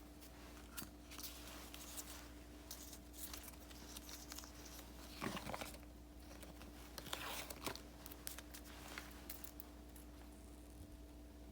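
Faint desk-side handling of paper and sticker sheets: light taps, small clicks and soft rustles, with two louder rustles about five and seven seconds in, over a steady faint hum.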